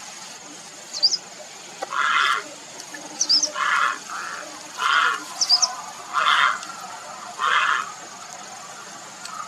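Grey heron giving a run of five short, harsh calls, one about every second and a half.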